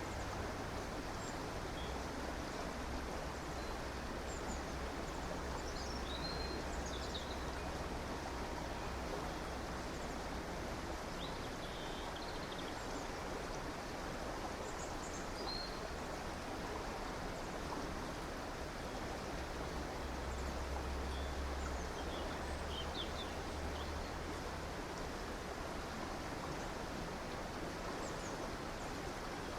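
River water flowing steadily, with small birds giving short high chirps every few seconds.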